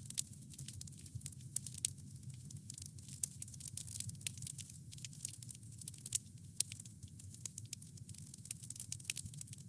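Wood campfire crackling, with frequent small, sharp pops of burning wood coming irregularly over a steady low rumble of the flames.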